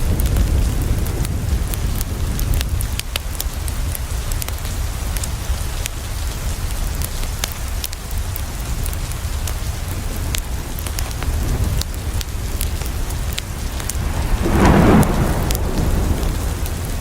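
Rain falling against a window over a steady deep rumble, with many sharp crackles from a wood fire. Near the end, a louder swell lasts about a second.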